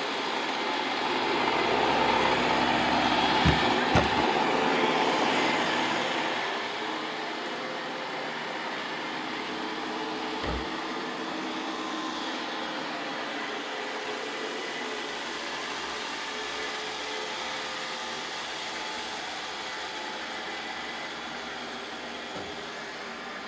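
Roomba robot vacuums running, a steady motor and brush whirr with faint whining tones, louder for the first few seconds and then settling lower. A few short thumps break in, about three and a half, four, ten and twenty-two seconds in.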